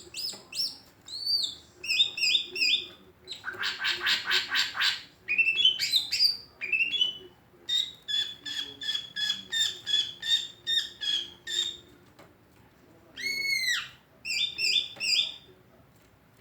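Green leafbird (cucak ijo) singing a varied song of whistled, arching notes and quick runs of repeated notes, with a harsh chattering phrase about 3.5 s in and a short pause near 12 s.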